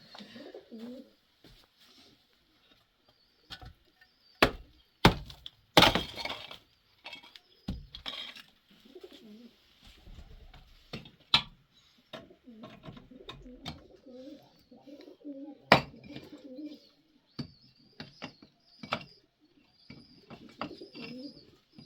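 Pigeons cooing in repeated low warbling calls, with small birds chirping high above them. Several loud, sharp knocks stand out, a cluster about four to six seconds in and another near the middle.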